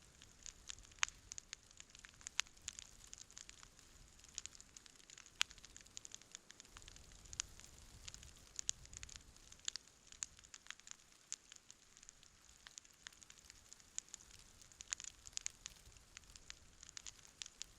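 Wood campfire crackling: irregular sharp pops and snaps, several a second, over a faint low hiss.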